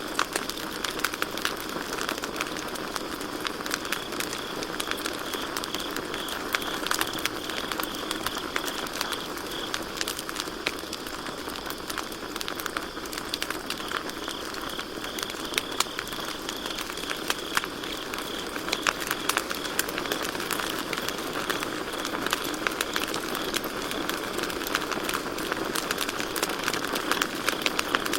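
Wood campfire crackling, with frequent sharp pops and snaps over a steady hiss. Crickets chirp in a high, even trill behind it, fading in the middle and coming back.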